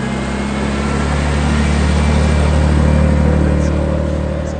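A car's engine running close by at a steady pitch, growing louder to a peak about three seconds in and then fading.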